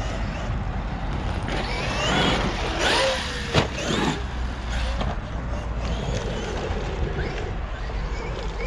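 Brushless electric motor of a Traxxas XRT RC truck whining, its pitch rising and falling with the throttle as it drives on dirt, with one sharp knock about three and a half seconds in.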